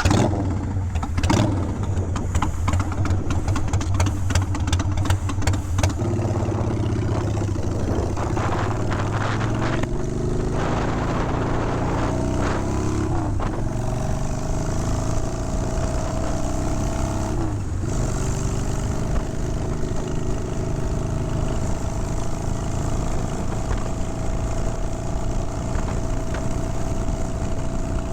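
Motorcycle engine under way, its pitch climbing and dropping sharply at each gear change, then holding a steady cruising pitch.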